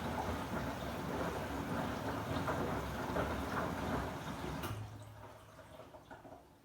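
Samsung WW90J5475FX front-loading washing machine in its rinse cycle: water sloshing in the tumbling drum. About five seconds in the drum stops and the sound drops to a faint low hum.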